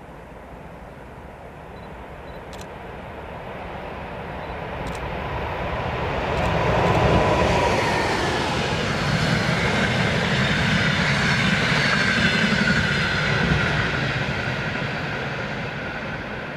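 EP20 electric locomotive hauling a passenger train past: the rumble and wheel noise build over several seconds, stay loud for several seconds with a whine that falls slightly in pitch, then begin to fade near the end.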